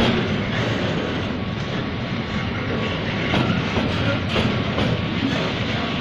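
Loaded freight flatcars rolling past on the rails: a steady rumble of steel wheels on track, with a few sharp clacks as wheels cross rail joints.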